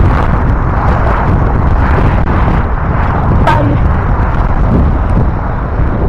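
Wind buffeting an action camera's microphone and tyre noise while riding a bicycle along a trail: a loud, steady rush heaviest in the low end. A brief squeak about three and a half seconds in.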